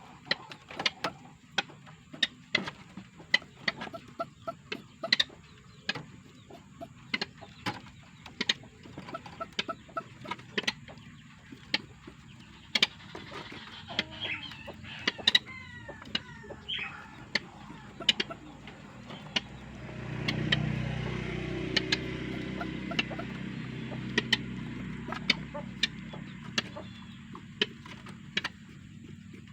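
A tame rail (mandar) giving short, sharp clucking calls over and over, one or two a second, with a few sweeping calls in the middle. A low motor hum swells about twenty seconds in and fades before the end.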